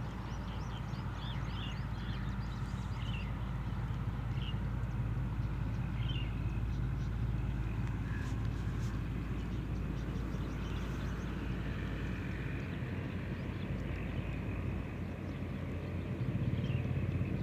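A steady low motor hum, with birds chirping in short calls over it.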